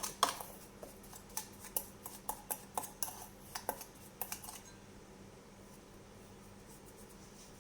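Spoon clinking and tapping against a mixing bowl while stirring a spice mix with olive oil, irregular sharp clicks that stop about four and a half seconds in.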